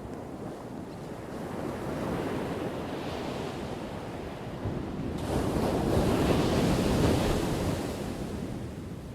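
Ocean waves crashing: one wave swells about two seconds in, then a bigger one breaks suddenly around the middle, surges and washes out, fading near the end.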